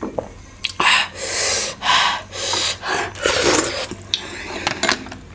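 A run of about five loud, airy mouth sounds, sharp breaths and slurps, from someone eating a large steamed momo full of hot soup.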